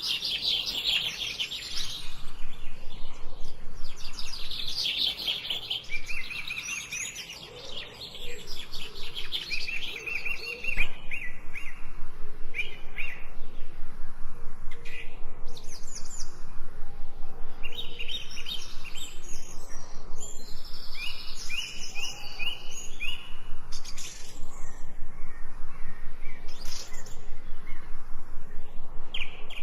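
Several songbirds chirping and singing together, with rapid repeated chirps and short trills.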